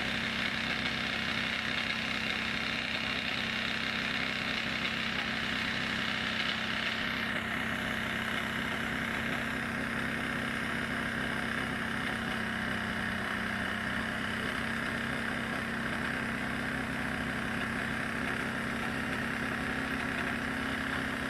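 An engine running steadily at a constant pitch, with a faint high hiss that falls in pitch about seven seconds in.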